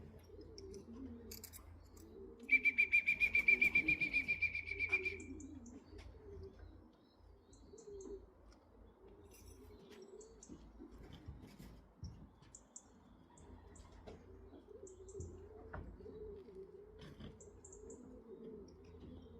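Racing pigeons cooing steadily in the loft, with a few light clicks. About two and a half seconds in, a loud, rapidly pulsing electronic beep sounds for nearly three seconds.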